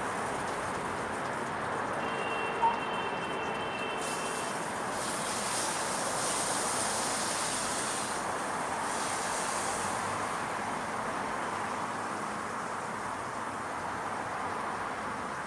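Steady background hum of distant traffic, an even hiss, with one short sharp click about two and a half seconds in and a brief swell of hiss around the middle.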